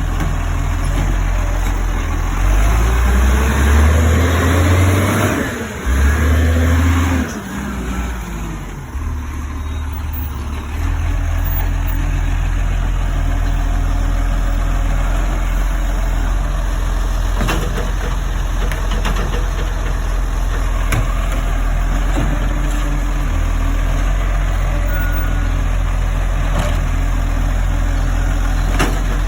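Garbage truck's diesel engine revs up, holds for a few seconds and drops back, then settles into a steady idle with a few faint clicks.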